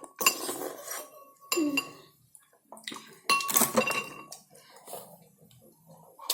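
A spoon clinking and scraping in a bowl while eating noodle soup, with two distinct strikes about three seconds apart that each ring briefly.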